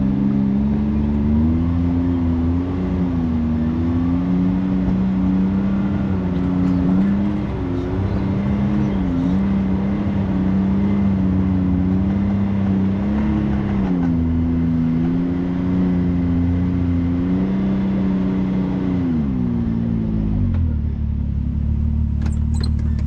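Side-by-side UTV engine running under varying throttle while driving a trail, its pitch rising and falling. About twenty seconds in it drops to a low idle as the machine stops.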